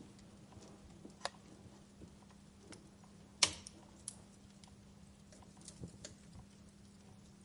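Wood fire burning in a fireplace, crackling with scattered sharp pops, the loudest about three and a half seconds in.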